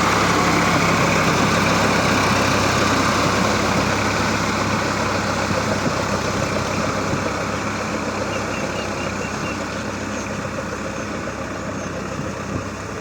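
Swaraj 960 FE tractor's diesel engine running steadily while tilling a field, its sound growing gradually fainter as it moves away.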